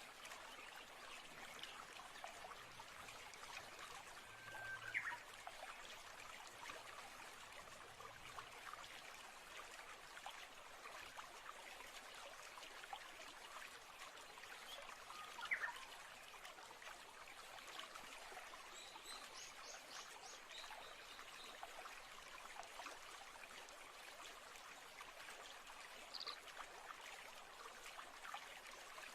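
Faint steady trickle of a stream, with a few short bird chirps over it: one about five seconds in, one around fifteen seconds, a quick run of high notes around twenty seconds, and one more near the end.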